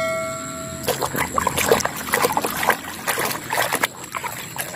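A ringing chime note dies away about a second in, then water splashing and trickling with scattered small clicks as a muddy toy monster truck is washed.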